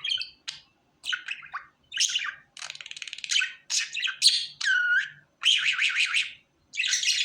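Pet budgerigar warbling and chattering: a quick series of short chirps and squawks with brief pauses, a fast buzzy rattle about three seconds in and a falling whistle a little later.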